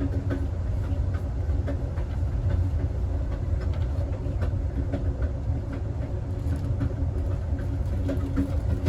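Southwest Chief passenger train rolling on the rails, with a steady low rumble and scattered light clicks and rattles from the wheels and the car.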